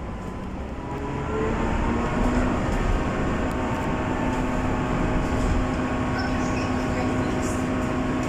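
Train running, heard from inside the carriage: a steady rumble of the wheels on the rails, with a motor whine that rises in pitch over the first two seconds and then holds steady.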